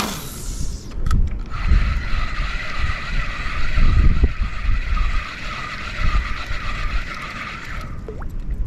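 Fishing reel being cranked steadily for about six seconds, a whir that pulses regularly with each turn of the handle, after a short rush of noise at the start. Low wind rumble on the microphone underneath.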